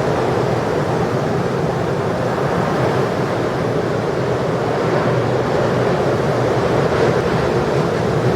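Ocean surf breaking in heavy hurricane swell, with wind on the microphone: a loud, steady noise with no single crash standing out.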